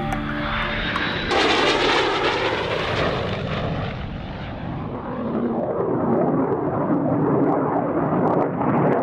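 Fighter jet flying past: a sudden rush of engine noise about a second in. Its hiss dulls over the next few seconds as it draws away, then the noise swells again toward the end.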